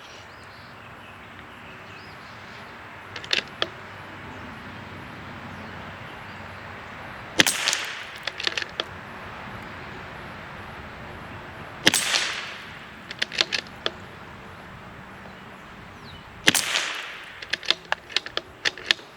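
Three shots from a CZ 457 Varmint MTR .22LR bolt-action rifle firing Lapua Center X, about four and a half seconds apart, each followed by a quick run of clicks as the bolt is cycled. A few bolt clicks come before the first shot.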